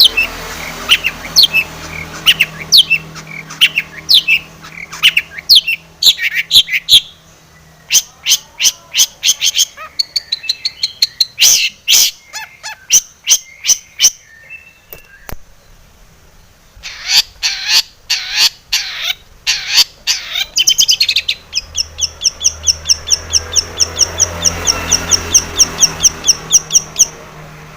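Long-tailed shrike (cendet) singing a varied song: a run of sharp, falling notes, then scratchy clicking chatter and short bursts of notes, and from about three quarters of the way in a fast, even run of repeated notes that stops shortly before the end.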